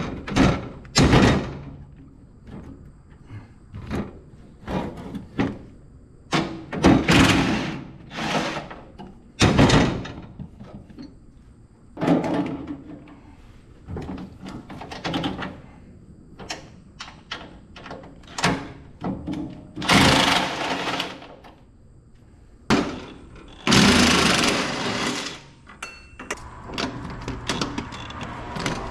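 Irregular metal clunks, knocks and rattles from hands-on work on an old Kubota mini excavator, with covers and panels being handled. A few longer scraping, rattling stretches come about two-thirds of the way in.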